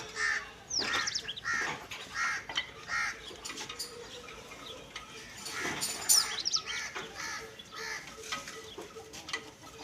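Chickens clucking in a run of short repeated calls, with a few higher calls that fall in pitch.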